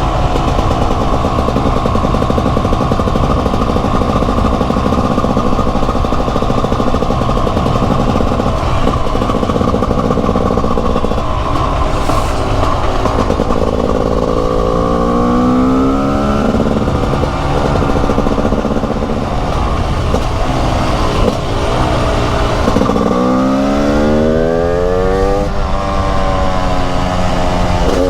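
TM Racing SMR 300 two-stroke single-cylinder supermoto engine running under way. The revs rise and fall through the gears twice in the second half.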